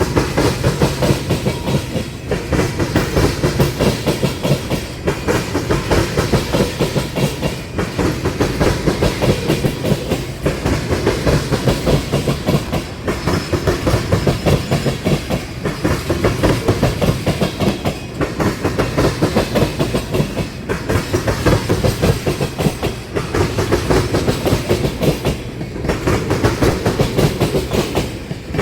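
Train's wheels clattering steadily over a railroad crossing diamond as its cars roll through, with a short lull about every two and a half seconds between cars.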